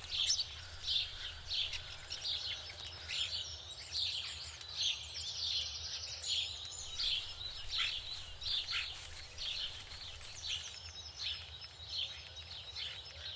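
Small birds chirping and twittering, with many short calls one after another and a quick trilled run of repeated notes about midway, over a faint low background rumble.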